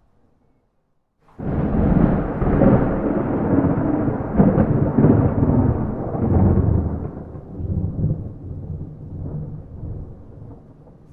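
A clap of thunder with no rain: it breaks in suddenly about a second in, rumbles loudly for several seconds, then slowly dies away into a low rumble.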